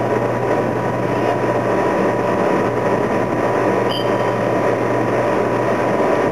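Steady engine drone with a constant hum, and a brief high-pitched tone about four seconds in.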